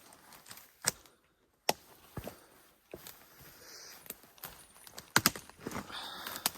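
Footsteps through dry leaf litter and twigs: irregular crunches and sharp snaps, with a short break about a second in.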